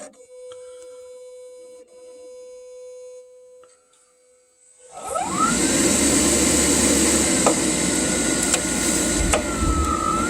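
Rinnai tankless water heater starting up after being plugged back in: a faint steady hum, then about five seconds in its fan spins up with a rising whine and the unit settles into a loud, steady rushing run with a few clicks. The start-up comes after water was cleared from its wet moisture sensor, the cause of its code 79 fault.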